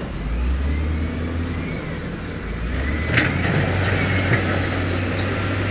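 Heavy diesel earthmoving machinery running with a steady low drone, its engine note rising about three seconds in. A sharp metallic clank comes at that point, then a fainter knock about a second later.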